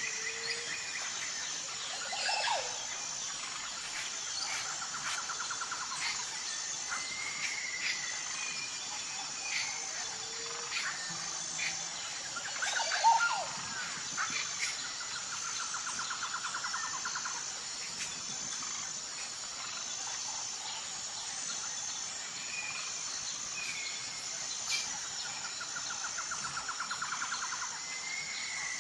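Outdoor nature ambience: insects keep up a steady, high, evenly pulsing drone, while birds call over it with scattered chirps, swooping calls and several short buzzy trills. A louder bird call comes about halfway through.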